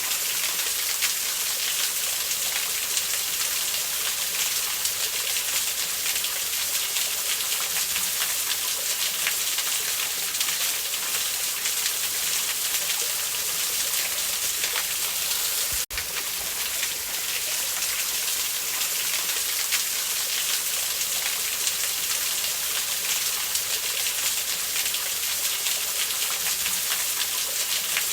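Steady rushing hiss of a waterfall. Partway through it cuts out for an instant, then resumes unchanged.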